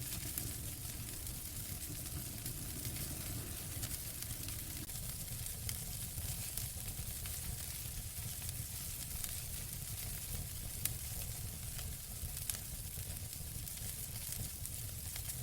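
Wood fire in a fireplace burning with a steady hiss and scattered crackles, with a sharper pop about eleven seconds in and another a little later.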